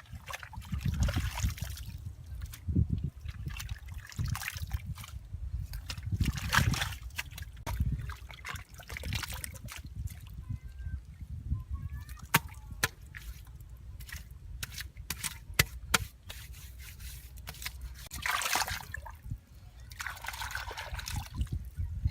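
Water sloshing and trickling in several separate bursts, with scattered sharp clicks between them.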